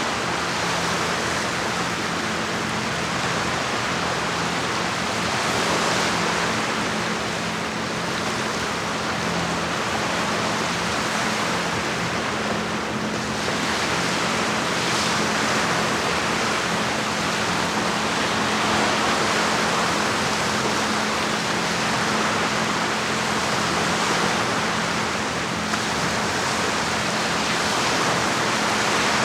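Lake water washing against the shore as a steady rushing noise that swells and eases gently, with a low steady hum underneath.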